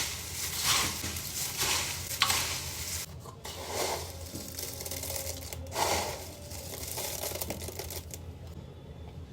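Crisp puffed rice being stirred and tossed in a pan or bowl: a series of irregular rustling, scraping strokes.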